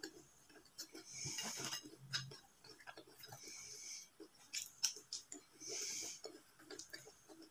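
Person eating nachos close to the microphone: tortilla chips crunching in three bursts about two seconds apart, with wet chewing and small mouth clicks between.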